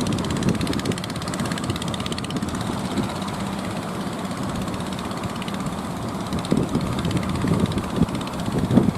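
A motor boat's engine running steadily with an even, fast beat, with gusts of wind rumbling on the microphone toward the end.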